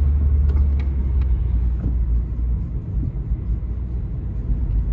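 Toyota Carina E's 1.6-litre 16-valve four-cylinder petrol engine and road noise heard inside the car while driving: a steady low rumble that eases slightly about three seconds in.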